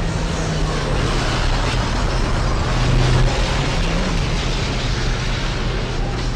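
A car on the move: a steady engine hum under a loud rush of road and wind noise.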